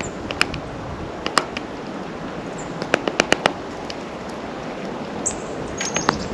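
Sharp taps and clicks of small birds pecking and landing at a seed feeder close to the microphone, coming irregularly with a quick run of about five in the middle. A few short high chirps from the feeder birds come near the end.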